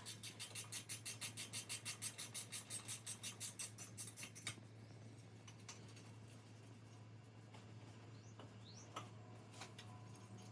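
Rapid, even clicking, about eight clicks a second, which stops suddenly after about four and a half seconds. A faint steady hum runs underneath.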